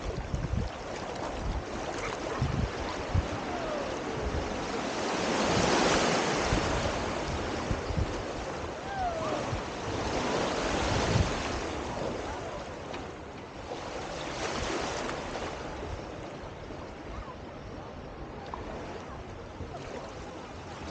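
Mediterranean sea waves washing in, swelling and easing in surges about every four seconds, with wind rumbling on the microphone.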